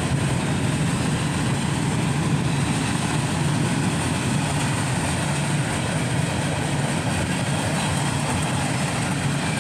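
Freight cars of a fast mixed freight train rolling past steadily, a continuous rumble of wheels on rail with no horn.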